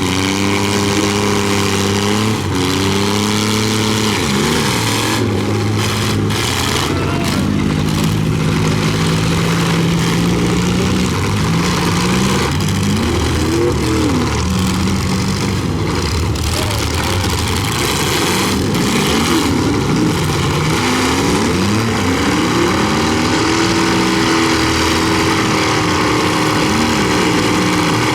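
Several pickup truck engines revving up and down together in a demolition derby heat, with occasional sharp bangs of impacts.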